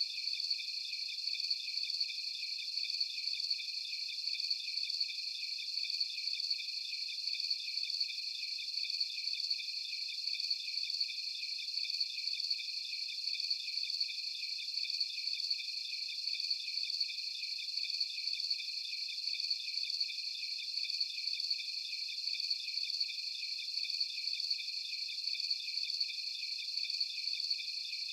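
Night-time insect chorus of crickets chirping in several overlapping high pitches, a fast, even pulsing that holds steady throughout.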